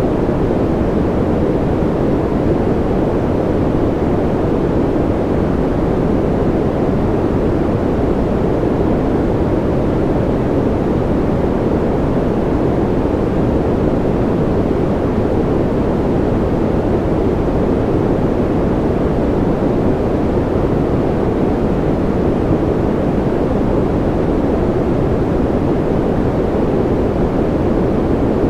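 Steady, unchanging sleep noise from a white noise track. It is a deep, even rush with most of its weight low down, well below the hiss of a true white noise.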